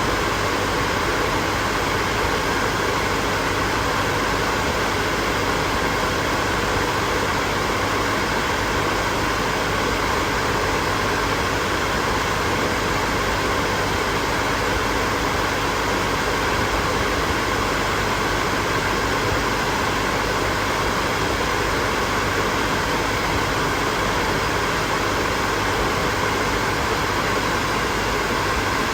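Hair dryer running steadily: a constant rushing blow of air with a faint motor hum underneath, no change in speed.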